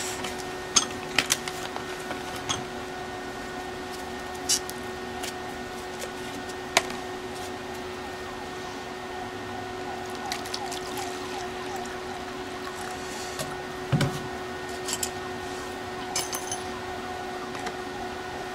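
Liquid pouring and fizzing, with scattered small clicks: muriatic acid on galvanized steel, dissolving the zinc coating.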